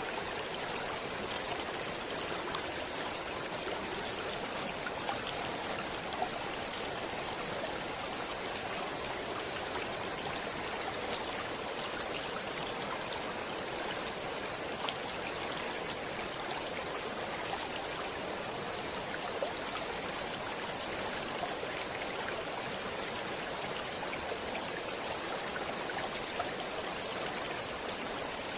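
Stream flowing steadily, a continuous even rush of water with many small splashes and drips.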